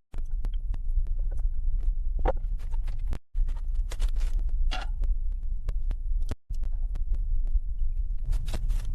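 Irregular knocks and thuds, like hand-tool work on wood and earth, over a steady low rumble. The sound cuts out suddenly twice.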